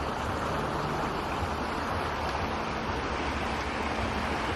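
Steady rushing of fast-flowing water, an even hiss with no let-up.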